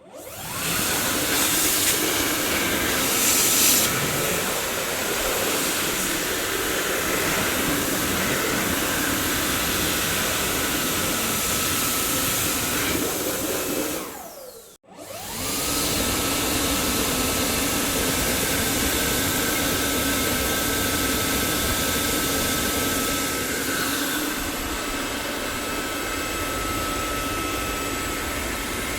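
Dyson vacuum cleaner running with a steady high whine over a dense rush of air, starting up at the beginning. About halfway through it cuts out for under a second and spins back up, the whine rising in pitch as the motor comes up to speed.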